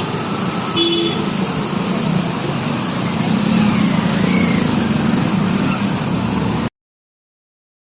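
Road traffic noise, a steady wash of passing vehicles, with a short car horn toot about a second in. The sound cuts off abruptly near the end.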